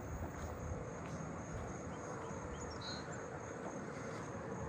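Columbian trigs trilling steadily, a thin high continuous insect chorus, with a few faint short bird chirps about three seconds in.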